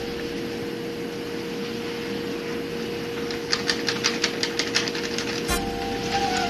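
Flour being sifted through a mesh sieve: a run of rapid light taps, about seven a second, starts about halfway through and lasts a second and a half. A steady low hum with a held tone runs underneath.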